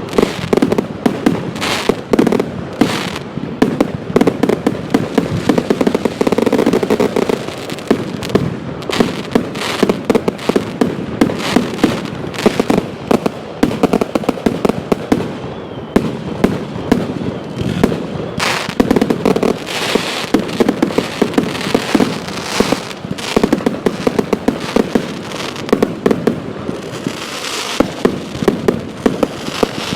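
Bonfire night fireworks going off in rapid, unbroken succession: several sharp bangs a second mixed with crackling.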